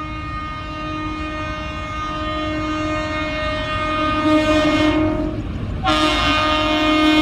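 A DEMU diesel train sounding its horn in a long held blast that grows louder as the train approaches, breaking off briefly about five seconds in before a second loud blast, over the low rumble of the train.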